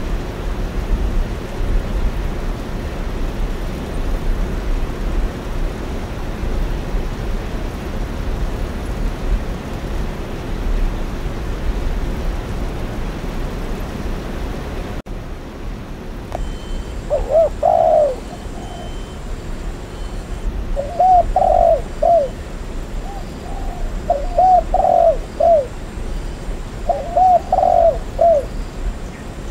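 Steady rain for the first half, then an abrupt switch to a dove cooing: several short phrases of about three soft notes each, repeated every few seconds.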